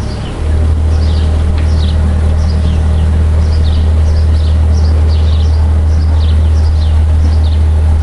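Small birds chirping over and over, quick short calls, above a loud steady low hum that swells about half a second in.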